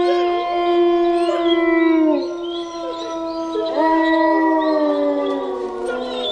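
Dogs howling together, several long overlapping howls that each trail down in pitch at the end.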